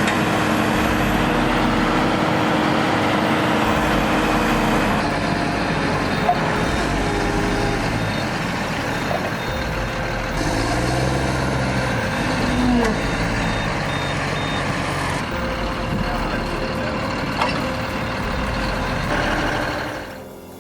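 Heavy vehicle engines running loudly, the sound changing abruptly a few times. Through the middle, a series of short, evenly spaced high beeps.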